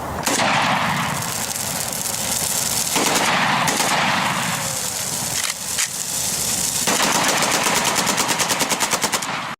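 A long string of firecrackers going off in rapid succession, dense crackling pops that settle near the end into an even run of about ten pops a second.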